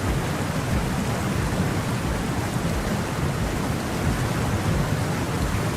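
Steady rush of water, with a deep, unsteady rumble underneath, the sound of floodwater after heavy rain.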